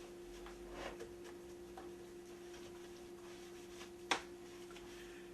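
A few faint taps and a sharp click about four seconds in, from handling the coffee maker and its parts while cleaning, over a steady low hum.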